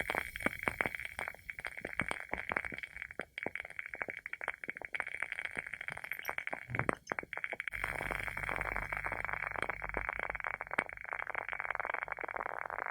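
Wooden wick of a WoodWick candle burning with a steady crackle of many small pops over a soft hiss. About eight seconds in the crackle turns denser and hissier.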